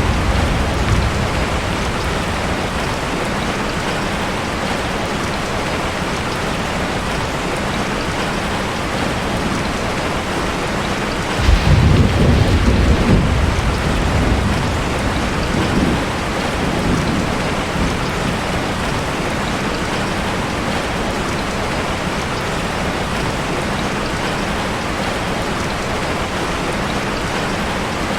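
Steady rain with a sudden low rumble of thunder about eleven seconds in. The thunder lasts a couple of seconds, then dies away in a few weaker rolls.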